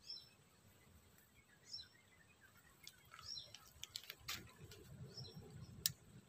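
Faint, short bird chirps repeating about every second and a half. In the second half come a few sharp clicks, the loudest just before the end, over a low rumble.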